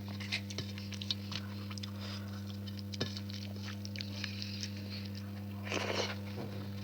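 Close-up chewing and wet mouth smacks, coming in scattered clicks, with a louder cluster about six seconds in. A steady low electrical hum runs underneath.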